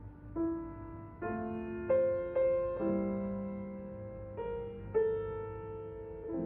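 Slow, gentle solo piano music: notes and chords struck roughly once a second and left to ring and fade.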